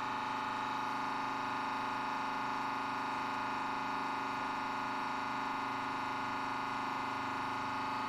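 A machine running with a steady hum made of several held tones that do not change in pitch or loudness.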